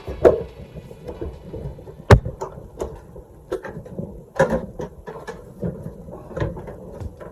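Hands handling washing-machine parts during reassembly: irregular clicks, knocks and clatter, with one sharp knock about two seconds in.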